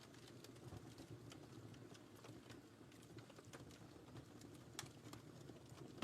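Fireplace fire crackling faintly: scattered, irregular small pops and snaps over a low, steady rumble of burning.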